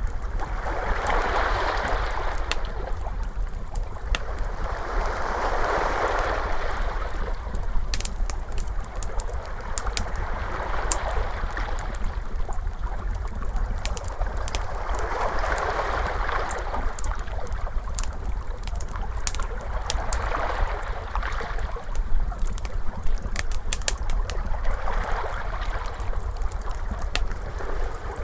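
Wood fire crackling with many sharp pops, over ocean waves washing in and out, one swell about every four to five seconds. A steady low rumble runs underneath.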